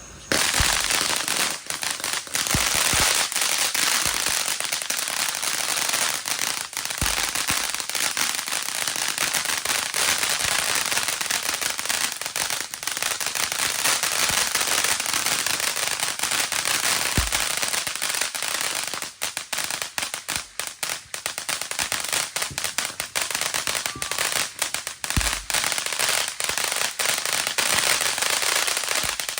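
Pyro Demon Fireworks 'Unbelievable' 500 gram fountain burning with a dense, loud crackle and rapid pops, starting abruptly and turning more sputtering and broken in the second half.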